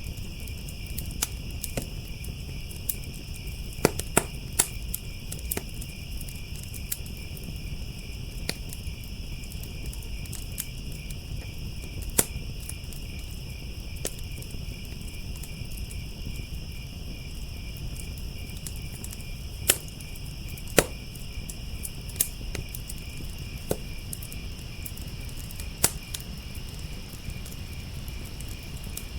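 Wood fire crackling, with sharp pops at irregular intervals and a few louder snaps, over the steady chirping of crickets and a low rumble.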